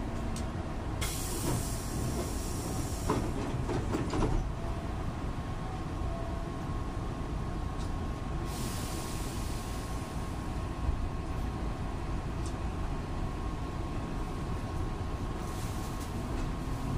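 Hankyu 8000-series electric train, standing: a steady hum from on-board equipment with a held tone, three bursts of air hiss and a few clicks. Near the end a low tone begins to rise as the train starts to move off.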